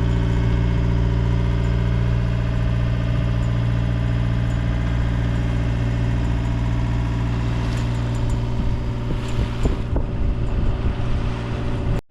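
Sailboat's engine running steadily at an even speed, with a few sharp clicks and knocks about eight to ten seconds in.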